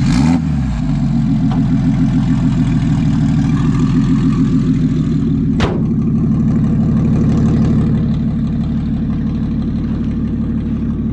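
Single-turbo BMW N54 inline-six in a 2007 335i idling steadily, with a quick blip of the throttle right at the start. A sharp click sounds about halfway through.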